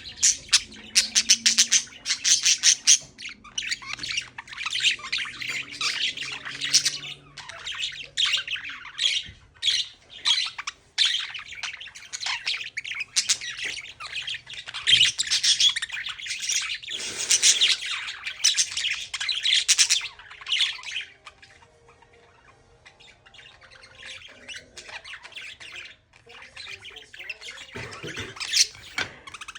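Budgerigars chattering: dense, rapid high chirps and squawks that thin out after about twenty seconds, with one more brief loud flurry near the end.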